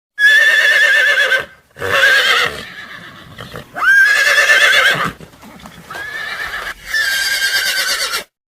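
Horse whinnying: about five neighs in a row, each a high, quavering cry lasting about a second, the fourth one quieter.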